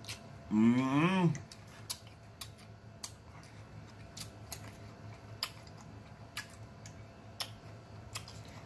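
Chewing cantaloupe with mouth smacks: a string of sharp, wet mouth clicks about twice a second, and a short hummed 'mmm' that rises and falls in pitch about a second in.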